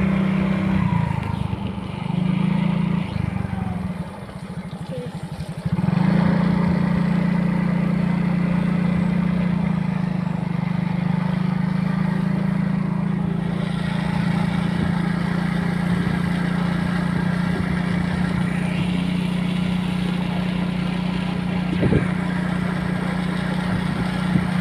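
Vehicle engine running as it is driven, easing off to a low idle-like note about four seconds in and picking up again at about six seconds, then running steadily.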